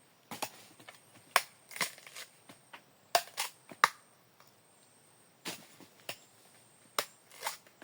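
Cacao pods being broken open: a series of sharp cracks and knocks, coming irregularly in small clusters of two or three.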